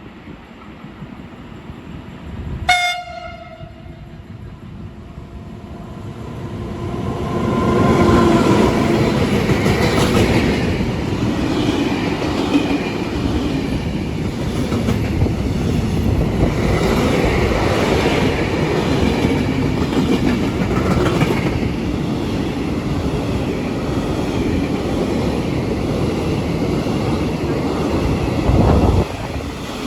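Train passing through a station at speed: a short horn toot about three seconds in, then the train draws near with horn tones and runs past as a long, loud rush of wheel and carriage noise.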